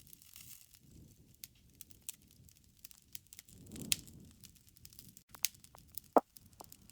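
Wood fire crackling in a fireplace: scattered pops and snaps over a soft low rustle of flames, with one louder snap near the end.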